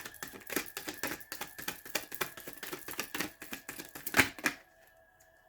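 Tarot cards being shuffled: a rapid run of crisp card clicks and flicks, with one louder snap about four seconds in as a card comes out of the deck, then stillness.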